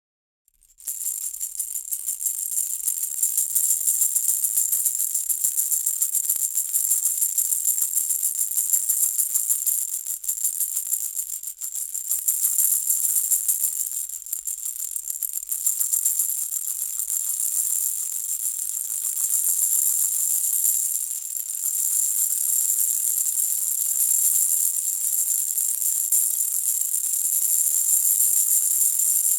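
Baby's hanging rattle toy shaken continuously in a fast, even rattle, with a bright, high jingling sound; it starts about a second in and eases briefly a few times.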